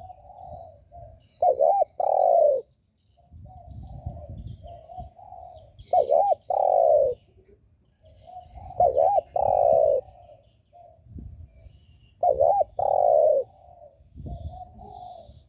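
Spotted dove giving its bowing coo: four loud phrases, each a quick double note followed by a longer drawn-out note, repeating about every three to four seconds, with softer coos in between. Faint high chirps of other birds sound in the background.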